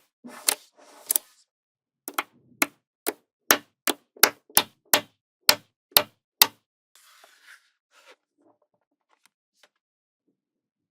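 Small magnetic balls snapping together as they are placed one by one: a string of about a dozen sharp clicks, roughly two a second, then a brief soft rustle.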